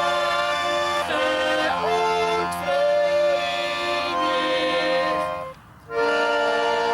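Live Swiss folk music led by accordion, with held chords and a voice singing over them. It breaks off briefly about five and a half seconds in, then comes back on a new sustained chord.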